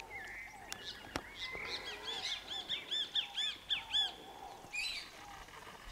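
Birds calling: a quick run of about eight short, arched notes, repeated from about two to four seconds in, over fainter chirping from other birds. There is a single sharp click just after one second.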